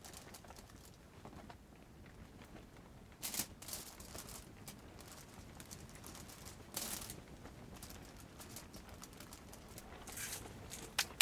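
A few short rustling, crinkling sounds, roughly three seconds apart, over a faint quiet background.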